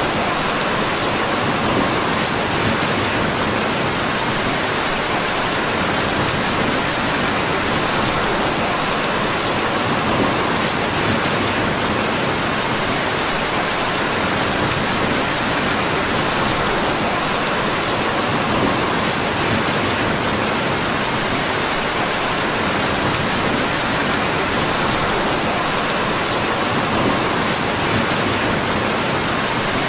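Steady rain falling, a dense even hiss at a constant level, with a few faint scattered ticks.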